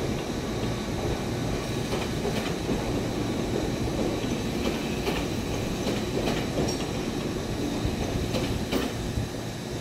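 Ohmi Railway train running slowly on track, a steady rumble with pairs of wheel clacks over rail joints several times.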